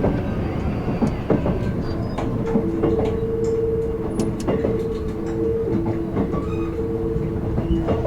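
Kintetsu 16600 series limited express train running, heard from the car end: a steady rumble with clicks from the wheels crossing the joints of short jointed rail. From about two and a half seconds in, two steady humming tones come and go.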